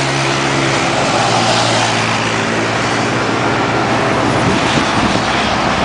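Motorcycle engine noise, loud and steady: one engine holds a steady pitch that fades out about a second in, leaving a broad rushing noise of running engines.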